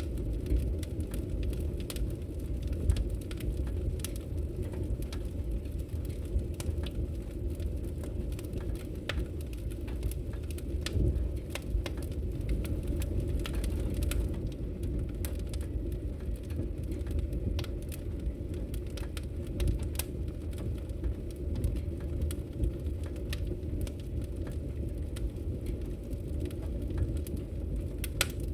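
Wood logs burning in a fireplace, crackling and popping in frequent sharp irregular snaps over a steady low rumble of the fire.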